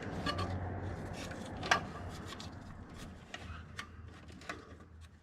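Wires and plug connectors being handled behind a removed dash panel: scattered light clicks and rubbing, over a faint steady low hum.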